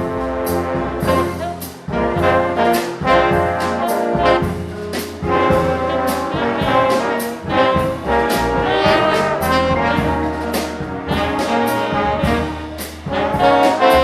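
A live big band playing swing: brass section with trombones and trumpets holding chords over a steady drum beat with cymbal hits.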